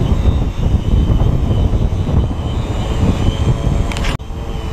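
Wind buffeting the microphone with a low rumble, over the faint steady whine of a multicopter's motors and propellers; the sound briefly drops out just before the end.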